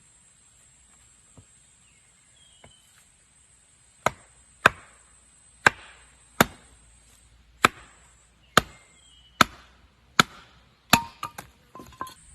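Wood being chopped by hand: about nine sharp strikes roughly a second apart start about four seconds in, followed by a few lighter, quicker knocks near the end.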